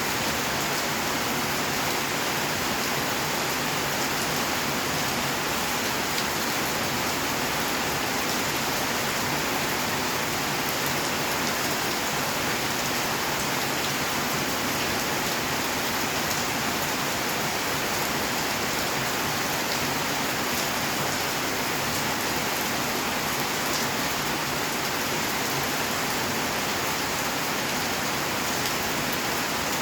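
Steady rain falling, an even hiss of many drops with faint scattered ticks of individual drops striking surfaces.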